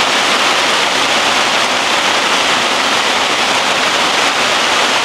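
Heavy summer downpour: a loud, dense, steady hiss of rain.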